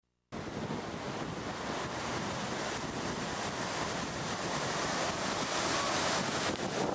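Heavy storm surf with strong wind, the wind buffeting the microphone: a steady rushing that builds slightly.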